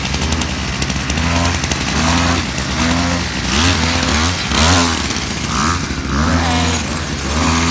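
Small mini motorcycle engine running loud, its pitch rising and falling again and again as the bike speeds up and slows down.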